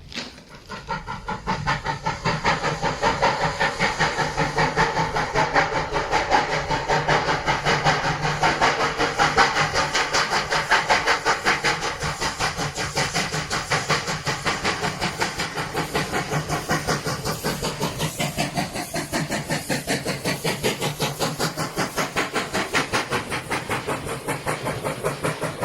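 Steam locomotive working slowly on a steep incline, its exhaust beating in rapid, even chuffs with hiss of steam. The beats build up over the first couple of seconds and ease a little in the second half.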